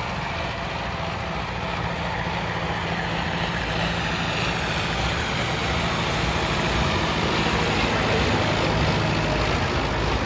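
Modified tractor's diesel engine running steadily, growing a little louder toward the end.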